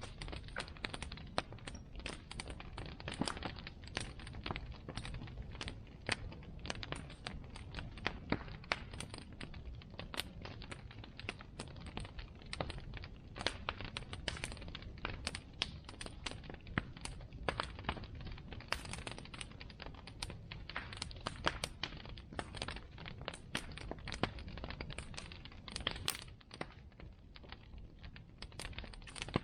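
Bonfire crackling: a dense, irregular stream of sharp crackles and pops from the burning wood over a low steady rumble of the fire.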